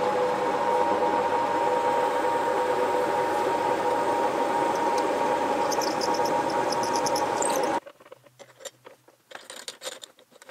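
Drill press running steadily while a Forstner bit bores a 40 mm pilot hole into walnut. A quick run of high ticks comes near the end, and the machine stops abruptly about eight seconds in, leaving faint clicks.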